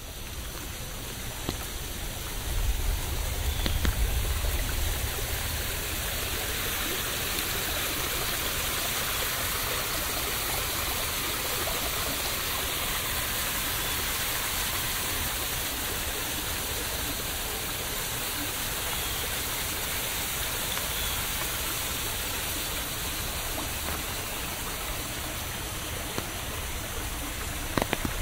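Steady rain falling as an even hiss. A low rumble swells a few seconds in and fades away.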